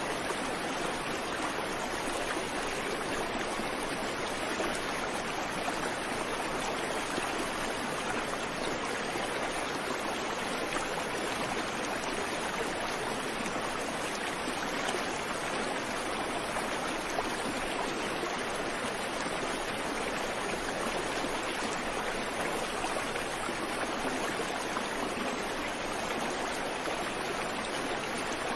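Creek water running over rocks: a steady, even rushing with no birds.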